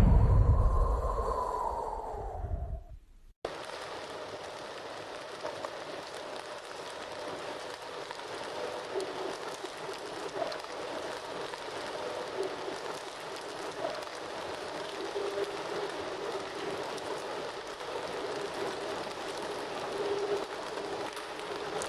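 A whooshing intro effect with a loud low rumble and a tone that rises then falls, cutting off abruptly about three seconds in. Then a steady crackling and hissing of a campfire, with small scattered pops.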